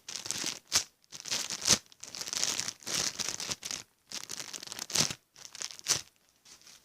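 Plastic crinkling and rustling in irregular bursts with short pauses between them, as squishy toys are handled in and pulled out of a plastic bag.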